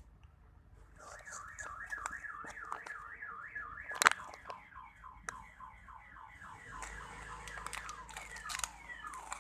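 Electronic siren-like alarm tone sweeping downward over and over, about three falling wails a second, starting about a second in. Light clicks and handling noise sound over it, with one sharp click near the middle.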